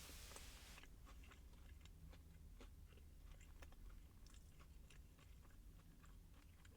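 Faint close-miked chewing of a crispy fried chicken sandwich: soft, irregular small crunches and mouth clicks, after a brief noisy burst right at the start.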